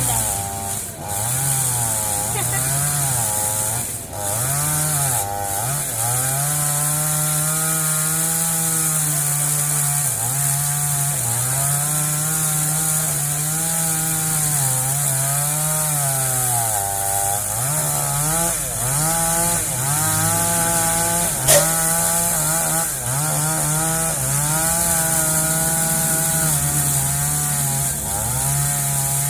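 Two-stroke chainsaw cutting wood, its engine pitch dropping as the chain bites in and rising again as it frees up, over and over. One sharp click about twenty seconds in.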